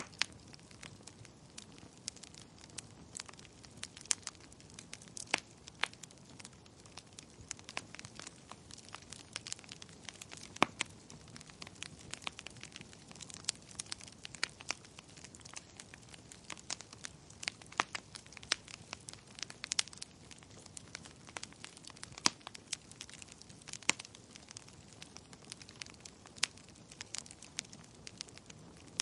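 Wood fire crackling: irregular sharp pops and snaps over a low steady hiss of burning.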